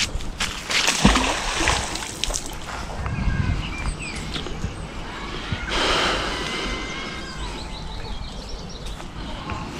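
Water splashing and sloshing as a fishing magnet is worked through the water, with two louder splashes, about a second in and near six seconds.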